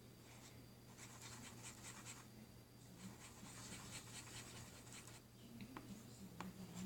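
Faint scratching and rubbing from slime being handled and mixed, with a few small clicks near the end.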